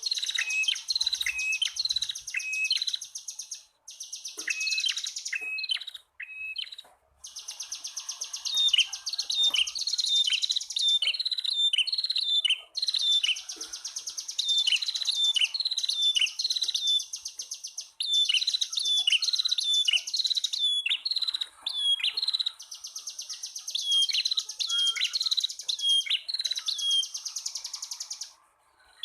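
Prenjak tamu (a prinia) male and female singing together. Sharp, hook-shaped chirps repeat several times a second, alternating with long, very fast buzzing trills, with a few short pauses.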